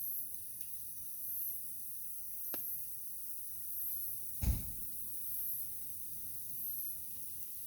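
Small wood fire burning in a camp stove with a low hiss, a thin crackle about two and a half seconds in, and a louder pop or knock about four and a half seconds in. A faint high-pitched pulse repeats about once a second.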